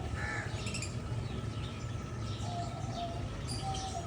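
Zebra finches calling: several short nasal call notes and high chirps at intervals, over a steady low hum.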